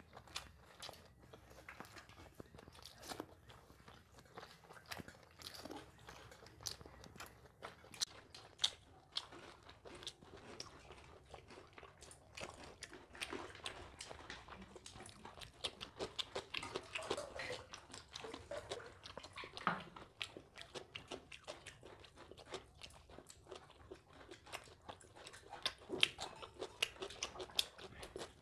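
Close-up mouth sounds of a person eating: chewing and biting, with frequent irregular crisp clicks and crunches.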